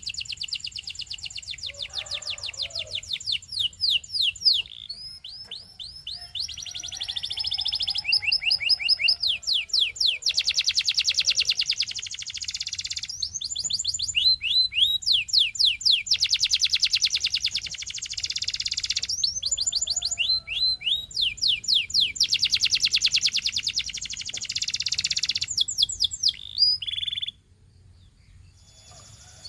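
Domestic canary singing: long rolling runs of rapidly repeated notes and fast trills, alternating with series of quick downward-sweeping whistles, each phrase changing every second or two. The song breaks off for about two seconds near the end, then resumes.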